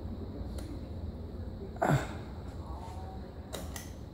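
Key Largo ceiling fan running steadily at full speed: a constant low hum and rush of moving air. About two seconds in, a short, louder sound sweeps down in pitch.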